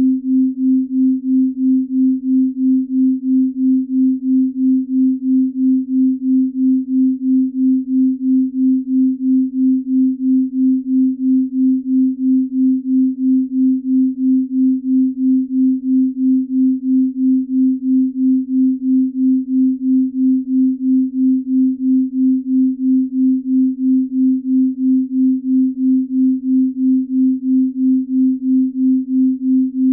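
Binaural beat: a low, pure sine tone that throbs evenly about twice a second, the beating of two slightly different tones. The slow beat is in the delta range used for deep-sleep tracks.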